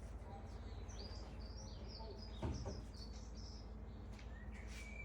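Small birds chirping: a run of short, high chirps between about one and four seconds in, over a steady low hum. A single dull thump about halfway through.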